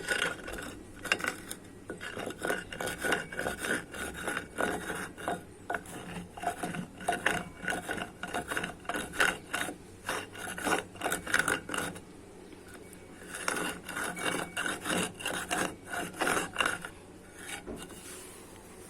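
Dried white mud crunching and crumbling as it is crushed on a hard floor: dense, rapid crackles and rasps. They stop for about a second two-thirds of the way through, start again, and thin out to a few last crackles near the end.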